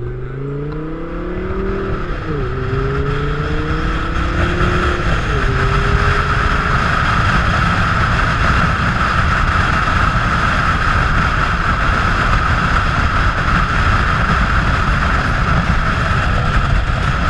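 Audi R8 engine accelerating, its pitch climbing and dropping at two upshifts in the first five or so seconds. It is then buried under steady, loud wind rushing over the car-mounted microphone.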